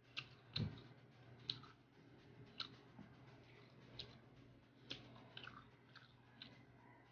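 Quiet, close chewing of crisp, firm Indian mango, with short sharp crunchy clicks every half second to second.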